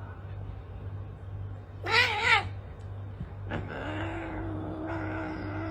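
Domestic cat calling: one short, loud, wavering meow, then about halfway through a long, drawn-out lower yowl, over a steady low hum.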